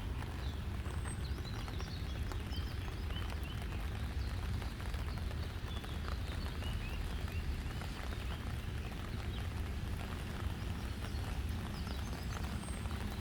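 Steady rain hiss over a constant low rumble, with short high bird chirps scattered throughout.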